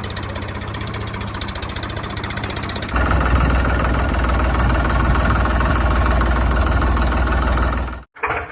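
Engine running steadily with a fast, even beat. About three seconds in it steps up to a louder, deeper note, then cuts off abruptly near the end.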